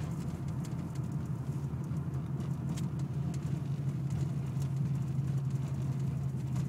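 Ford Mustang 5.0's V8 running steadily at low speed, heard from inside the cabin as a constant low drone.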